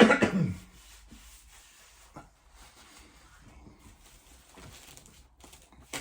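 A short, loud throaty vocal sound at the very start, then quiet eating sounds: chewing with faint rubbing and rustling of food and wrapping.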